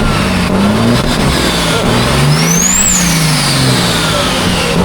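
Loud motor vehicle engine running under acceleration, with a high whine that climbs to a peak about three seconds in and then falls away.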